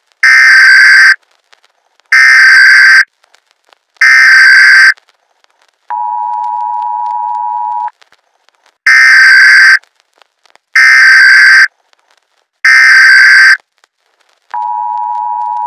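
Emergency Alert System header: three loud, roughly one-second bursts of screeching digital SAME data, then the quieter two-tone EAS attention signal held for about two seconds. The whole sequence then plays again.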